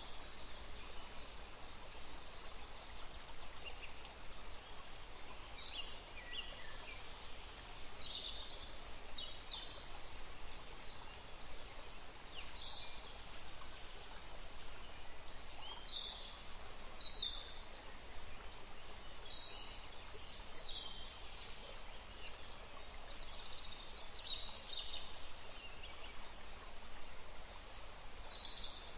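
Birds chirping in short, scattered high calls, some falling in pitch, over a steady background hiss.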